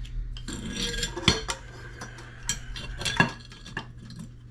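Clinking and clicking of metal faucet parts as a spout and its washer are handled and seated in a sink, with several sharp clicks.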